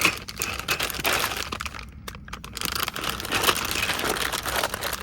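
Crinkling, rustling handling noise, with a short lull about two seconds in.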